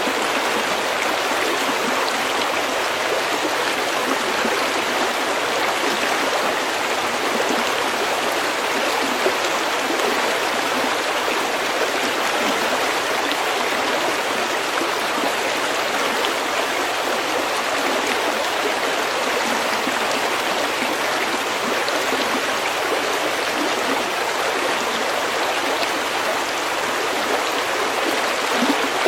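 Snowmelt stream flowing over pebbles: a steady, even babbling and rushing of water.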